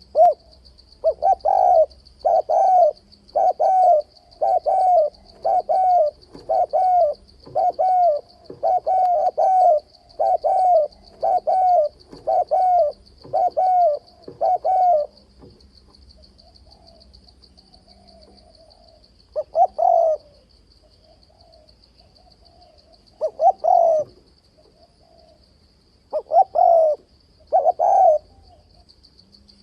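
Spotted dove cooing: a fast run of short coo phrases, about one a second, for the first half, then single calls several seconds apart. A steady high buzz runs underneath.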